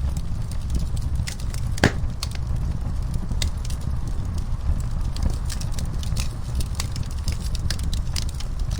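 Wood fire crackling in a fireplace: irregular pops and snaps over a steady low rumble of the flames, with one louder pop a little under two seconds in.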